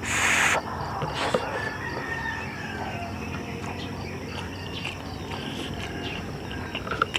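Rural background of insects and birds, with chickens nearby. A short, loud hissing burst comes at the very start, and a few soft clicks follow.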